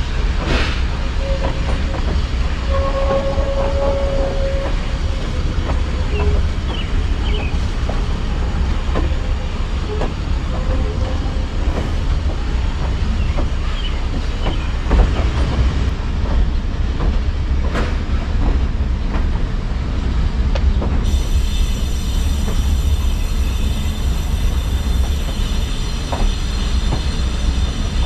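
Vintage passenger train rolling along the track: a steady low rumble from the running gear with irregular clicks and clunks of the wheels over the rails.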